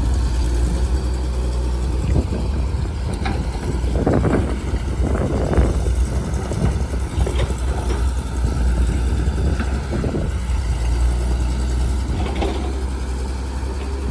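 Heavy diesel engine of earth-moving machinery running with a steady low rumble, with rougher, louder noise about four to six seconds in.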